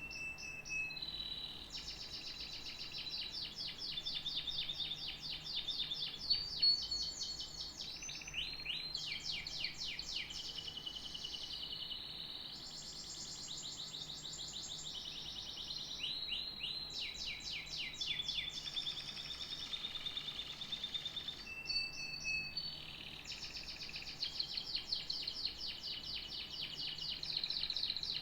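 Domestic canary singing in long, high-pitched phrases of rapid trills and rolls, broken by short pauses every few seconds.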